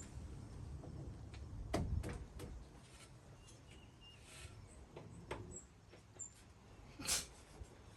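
A few sharp clicks and knocks, a cluster about two seconds in, another near the middle and a short scrape near the end: the battery cable clamp being fitted and tightened onto the battery terminal.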